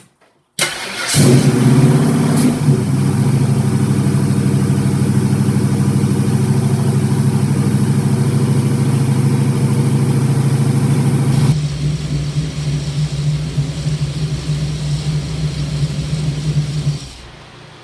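Carbureted V8 engine cranking and catching, then running at a steady idle to warm up before PCV valve tuning. About two thirds of the way through it settles a little quieter, and near the end the sound drops away.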